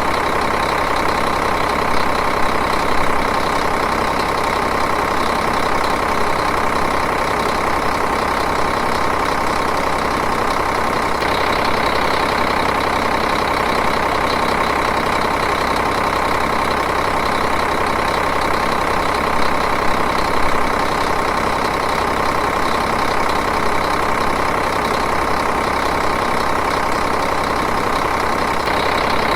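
Diesel engine idling steadily at an even speed.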